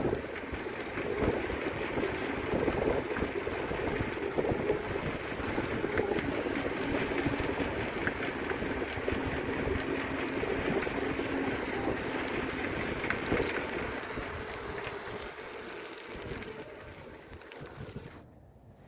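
Riding noise from a moving bicycle: wind buffeting the microphone over the rolling of the tyres, dying down over the last few seconds.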